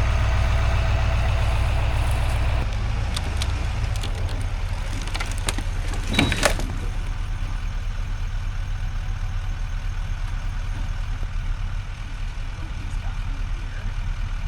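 Truck engine running, louder for the first few seconds, then easing back to a steady idle. There are a few knocks, with a sharp clank about six seconds in.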